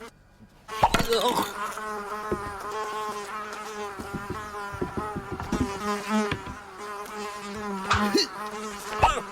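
A steady, slightly wavering buzz like a flying insect, with a few short clicks and knocks mixed in; it starts suddenly a little under a second in.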